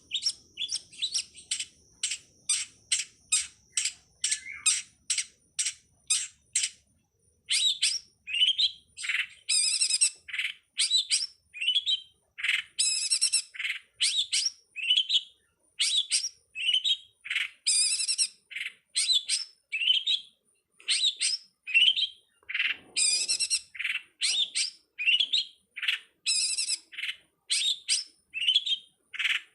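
Long-tailed shrike (pentet) singing. First comes a run of short, evenly repeated chirps, about three a second. After a brief pause it breaks into a varied stream of harsh, scratchy notes mixed with rising whistled calls.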